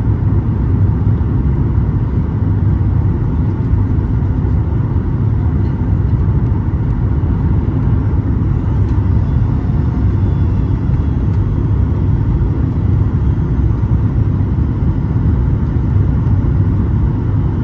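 Steady low cabin noise of a Boeing 737 MAX 8 in flight, heard from inside the passenger cabin: airflow over the fuselage and its CFM LEAP-1B turbofans blending into an even rumble, without change.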